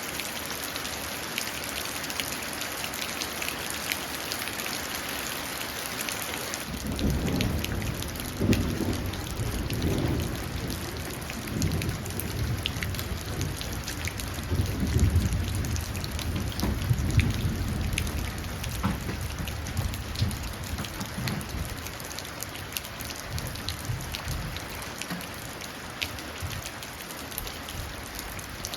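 Steady rain falling and splashing into a puddle. About a quarter of the way in, a long roll of thunder begins; it swells and rumbles in several waves for some fifteen seconds, then fades while the rain goes on.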